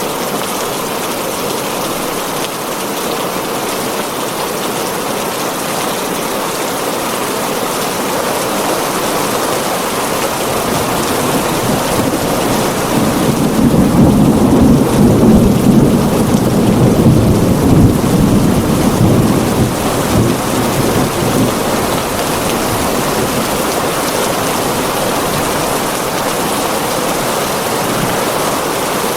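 Heavy rain falling steadily on a tin roof, with a long roll of thunder that builds to its loudest about halfway through and dies away a few seconds later.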